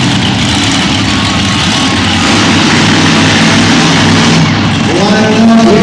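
Monster truck engine running loudly and steadily, echoing in an indoor arena.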